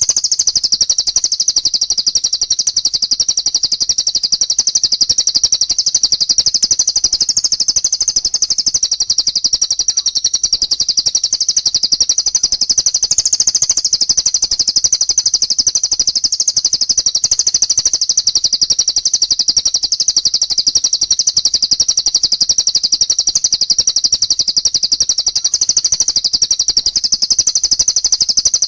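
Recorded songbird trilling: one unbroken, very fast, high-pitched trill held at a steady level throughout.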